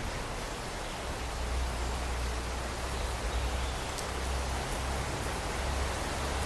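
Steady rain falling, an even hiss of drops with a low rumble that swells and fades underneath.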